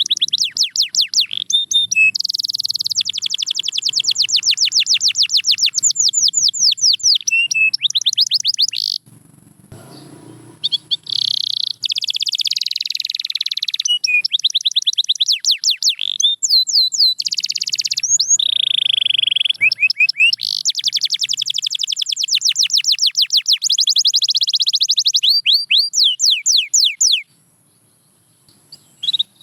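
Domestic canary singing in long, fast trills of rapidly repeated notes, each sweeping down in pitch. The song breaks off briefly about ten seconds in and again near the end.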